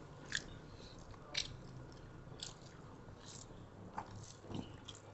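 Faint, close-miked mouth sounds of chewing rice and curried meat: soft wet smacks and clicks, roughly one a second.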